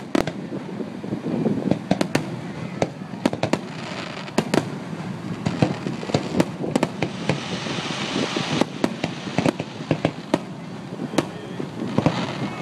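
Aerial fireworks shells bursting one after another at irregular intervals, each a sharp bang, with a denser stretch of rapid pops and hiss around the middle.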